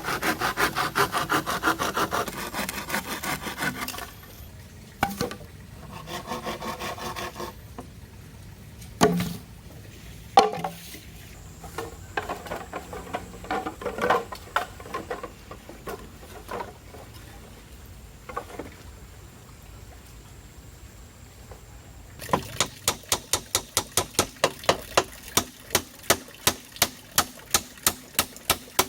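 Wood being sawn by hand in quick strokes, then a shorter second bout of sawing and a few scattered knocks. Later come regular sharp blows about three a second, like chopping or hammering on wood.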